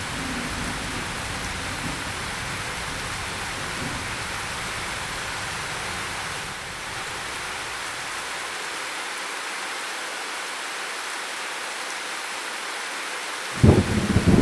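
Steady rain with a low thunder rumble dying away over the first few seconds. Near the end a sudden loud thunderclap breaks in.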